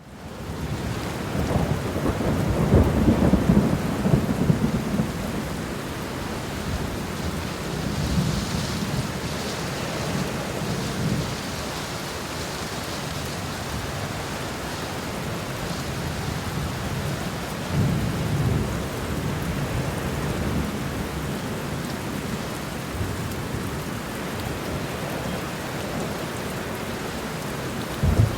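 Steady rain falling, a continuous even hiss, with low rumbles that swell and fade several times, the longest and loudest a few seconds in.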